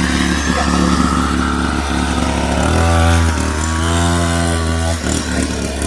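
Small single-cylinder pit bike engine running; about halfway through it is given more throttle, its buzz rising in pitch and level for a couple of seconds before easing back.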